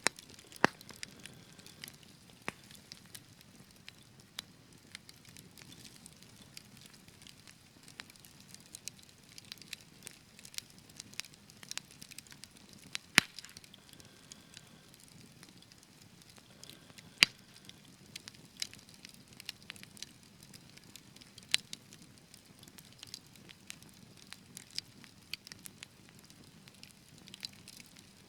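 Wood fire burning in a fireplace: a soft low rumble of flames under frequent irregular crackles, with a few sharp loud pops, the loudest about 13 and 17 seconds in.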